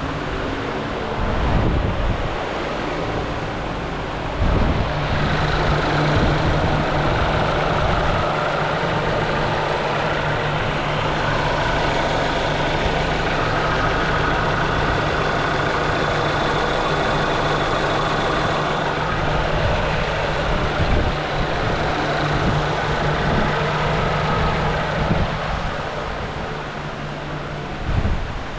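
2020 Cadillac XT4's 2.0L turbocharged four-cylinder engine running steadily at idle, with wind on the microphone. The steady engine hum comes in about four seconds in and cuts off near the end.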